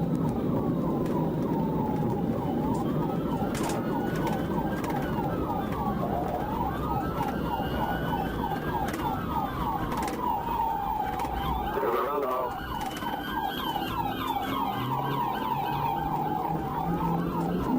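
Police car sirens sounding: a slow rising-and-falling wail overlapping a fast yelp, over a steady rumble of engine and road noise.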